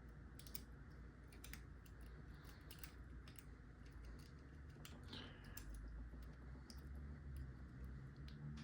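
Faint, irregular metallic clicks and taps of lock picks working the pins inside a lock's keyway.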